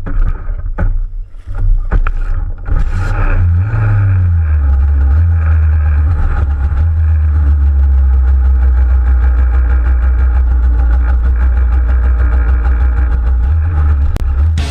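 Moped engine starting. A few knocks and uneven sputters come first, then it catches a little under three seconds in. After a brief rev it runs steadily.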